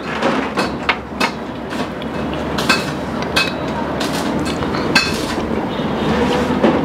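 Repeated sharp clinks and knocks, irregularly spaced, over a steady background din.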